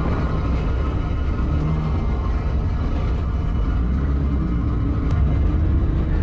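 Car engine running at low revs with a steady low rumble, its note wavering only slightly. This is the Corolla drift car's 1.5JZ straight-six rolling slowly with a tyre pushed off its bead.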